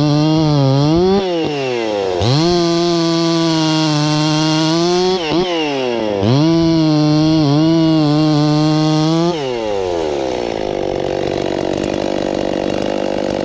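Husqvarna 51 two-stroke chainsaw held at full throttle, sagging slightly under load as the freshly hand-filed chain cuts wood. It drops off and revs back up twice, then falls back to idle about nine seconds in.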